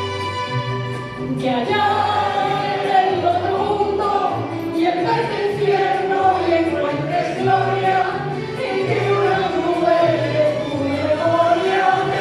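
A choir singing a song in Spanish with a steady low accompaniment; a new phrase comes in about a second and a half in.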